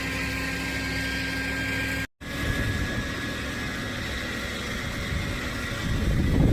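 Truck engine running steadily, cutting out for an instant about two seconds in and growing louder and rougher near the end.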